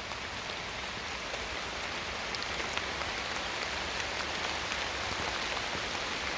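Steady rain falling in woodland: an even hiss with scattered faint ticks of individual drops.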